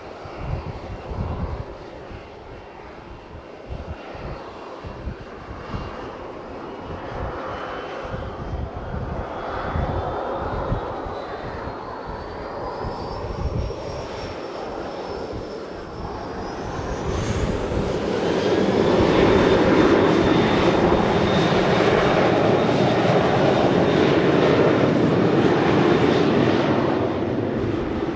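Jet airliner on its takeoff run. A high engine whine climbs in pitch as the engines spool up to takeoff thrust, then the engines run loud and steady for about ten seconds before easing near the end.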